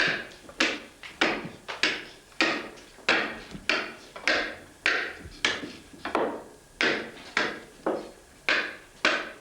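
Steady, evenly paced blows of a hand tool striking wood, about one and a half a second, each a sharp knock with a short ring-off.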